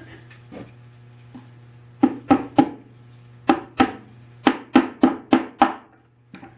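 About ten sharp, ringing taps of a light hammer on a wooden tool chest, in three groups: three quick taps, then two, then five, seating a part back in place.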